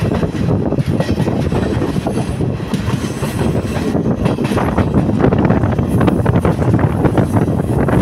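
Chinese-built diesel multiple unit of Sri Lanka Railways running at speed, heard from its open doorway: a steady, loud rumble of wheels on rail with a running clickety-clack of rail joints.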